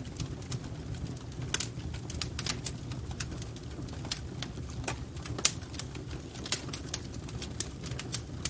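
Wood fire crackling in a fireplace: irregular sharp pops and snaps, several a second and uneven in strength, over a steady low rumble. The strongest snap comes about five and a half seconds in.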